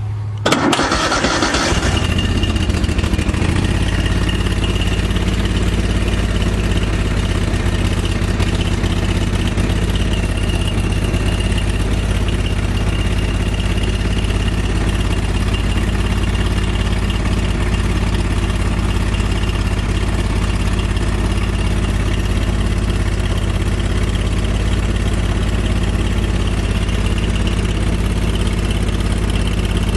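Cold start of a garden tractor's 25 hp Kohler Command V-twin with the choke out: cranked over, catching within about two seconds, then running steadily.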